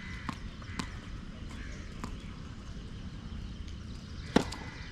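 Tennis ball knocks: a few light knocks in the first two seconds, then one loud, sharp racket strike on the ball a little after four seconds in.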